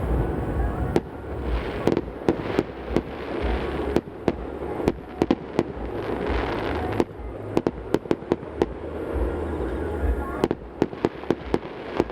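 Aerial fireworks going off in a steady barrage, many sharp bangs over a continuous rumble, with a quicker run of bangs near the end. The explosions echo off the surrounding mountains.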